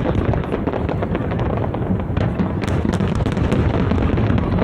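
Large aerial fireworks show going off nonstop: a dense rumble of booms with many sharp crackles.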